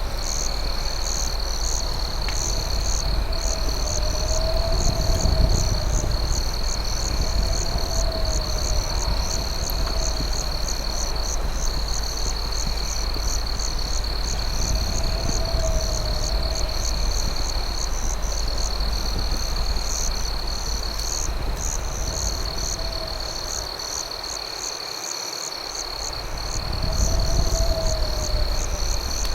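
Night chorus of crickets: a continuous high trill with rapid, regular chirping above it. A fainter low call recurs every few seconds. A steady low rumble runs underneath and dips away for a couple of seconds near the end.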